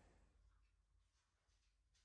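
Near silence: room tone with a few very faint ticks.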